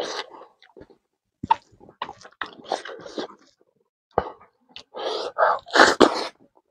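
Close-miked eating by hand: wet chewing and lip-smacking on rice and beans, with short sharp smacks in between and louder noisy mouth sounds as a handful of food goes into the mouth near the end.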